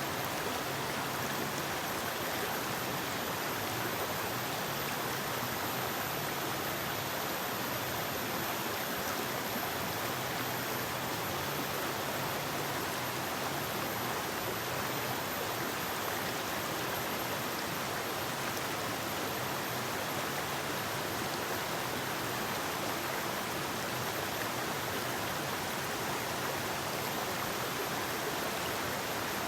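Forest river rushing over rocks: a steady, even flow of water noise with no change.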